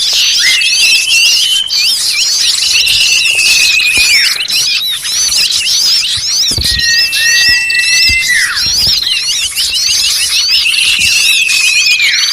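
A dense, noisy chorus of many small birds calling over one another: rapid chirps, repeated runs of falling trills and long whistled notes. This is a bird-lure (pikat) recording meant to draw small birds in.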